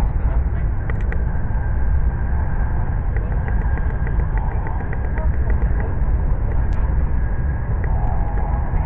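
Steady low rumble of an E7-series Hokuriku Shinkansen train running, heard inside the passenger cabin, with a faint steady high tone above it.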